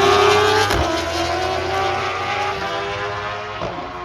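A drag-racing motorcycle engine accelerating hard down the strip. Its pitch climbs, with short breaks at gear changes about a second in and near the end, and the sound fades as the bike pulls away.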